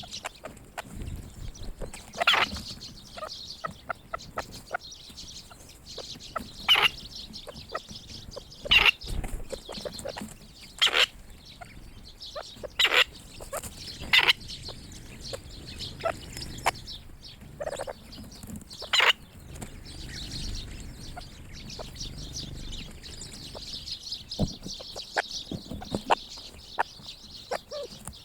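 Flock of grey partridges giving short, sharp calls at irregular moments, over a steady high chatter of small birds.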